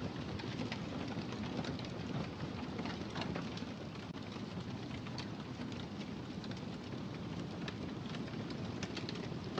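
Wood fire crackling in a fireplace: a steady low rumble of burning with irregular small pops and snaps scattered throughout.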